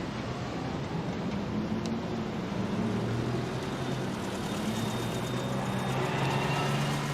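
Motor vehicle engine noise: a steady low hum whose pitch shifts slowly, over a continuous noisy background.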